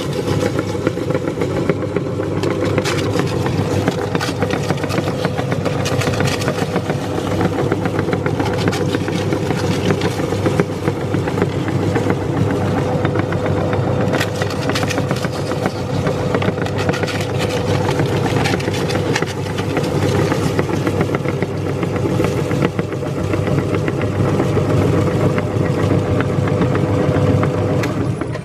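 Meat grinder's motor running steadily with a steady hum, with many small crackles over it as pani puri shells are fed through, then it cuts off suddenly at the end.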